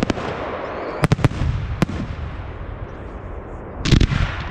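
Aerial firework display shells bursting: several sharp bangs about a second in, a fading crackle, then the loudest cluster of bangs near the end.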